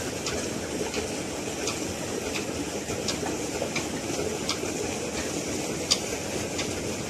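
Old Ruston Hornsby diesel engine running steadily, with a sharp mechanical tick repeating a little faster than once a second.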